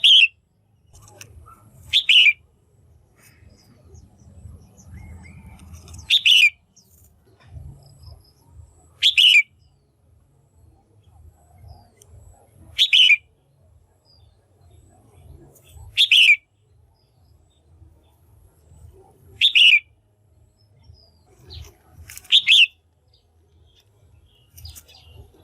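Female red-whiskered bulbul calling: eight short, loud calls, each falling in pitch, repeated about every three to four seconds.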